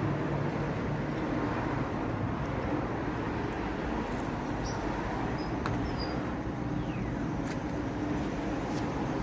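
Steady low engine hum with a few faint clicks over it.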